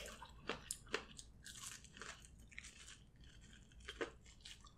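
Close-miked eating sounds: wet chewing and smacking with sharp crunchy clicks, from biting and chewing corn on the cob coated in alfredo sauce. The clicks come about every half second at first, soften in the middle, and return near the end with a fresh bite.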